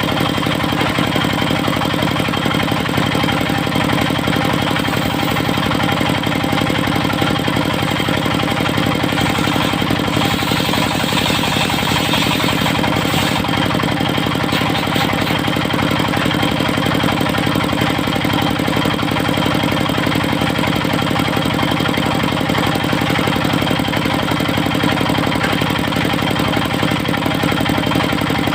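Engine of a portable circular-saw sawmill running steadily at an even speed, with a short stretch of higher hissing noise about ten to thirteen seconds in.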